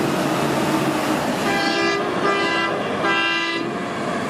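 Three short honks of a vehicle horn, each held at one steady pitch for about half a second, over a steady noisy background.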